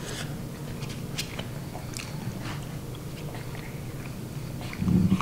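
A person chewing a mouthful of soft shepherd's pie close to the microphone, with scattered small clicks. A short, louder low sound comes just before the end.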